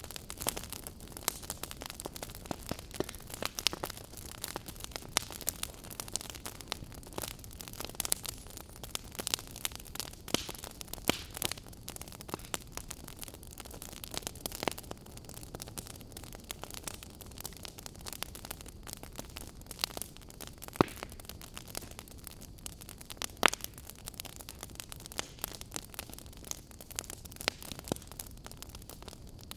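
Burning wood fire crackling: frequent irregular sharp pops and snaps over a steady low hiss, with a few louder cracks.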